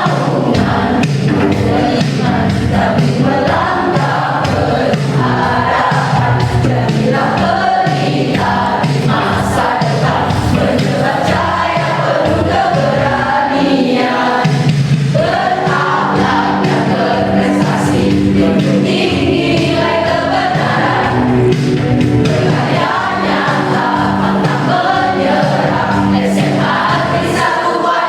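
Mixed choir singing a march song in Indonesian, with held sustained chords under the moving melody.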